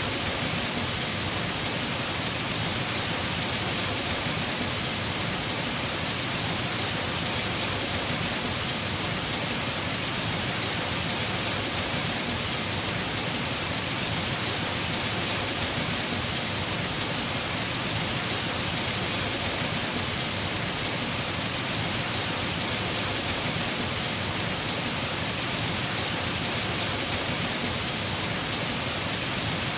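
Heavy rain falling steadily on a house roof, an even hiss without breaks or distinct drops standing out.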